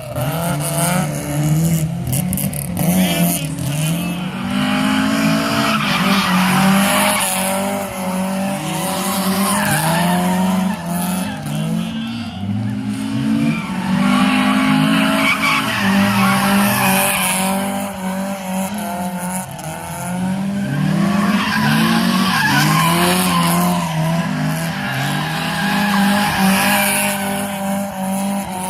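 Datsun 1200 with a swapped-in Honda S2000 F20C four-cylinder engine being driven hard, its pitch rising and falling over and over as it revs up and lifts off, with tyres squealing as the car slides.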